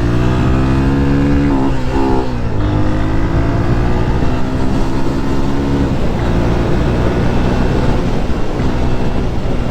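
Motorcycle engine running under way, its note climbing and then dropping about two seconds in, then holding steady and getting rougher in the second half.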